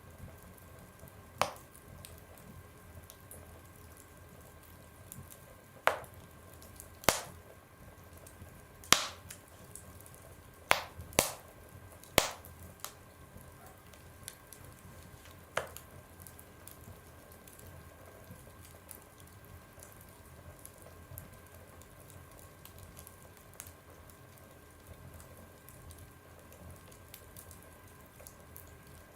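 Wood fire burning in a stove: burning wood gives sharp pops, about eight loud ones scattered through the first half, the loudest about nine seconds in. Faint small crackles and a low steady rush continue after the pops die away in the second half.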